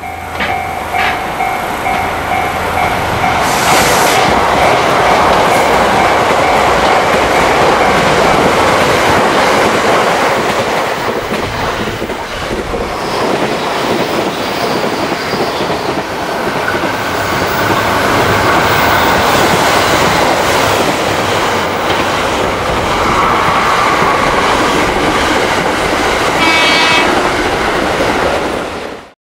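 A train passing at speed: a continuous loud rush of wheels on rail with clickety-clack. A steady tone sounds for the first few seconds, and a brief high-pitched tone comes near the end.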